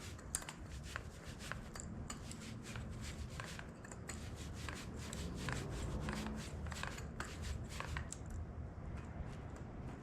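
Paint roller rolling paint onto a cast-iron tractor front weight: a steady rubbing with a dense patter of small clicks.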